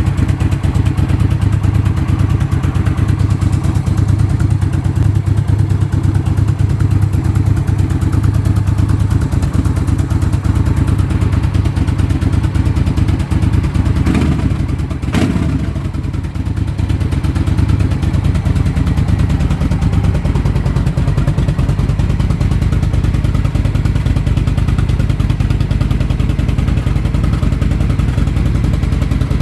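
Suzuki Intruder VS1400's V-twin engine running through a Silvertail K01 exhaust with racing end caps, idling with an even, deep beat. It is revved briefly twice about halfway through, then settles back to idle.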